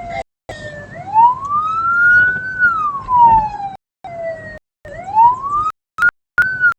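Wailing siren of a military police escort vehicle, its pitch rising and falling slowly in long sweeps. The sound cuts out briefly several times.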